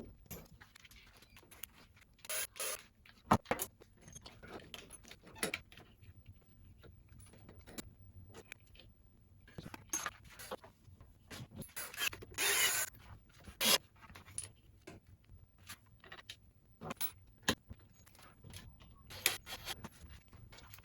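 Intermittent clicks, knocks and scrapes of hand tools and metal parts being handled during motorcycle assembly work, with a brief noisy burst a little past halfway.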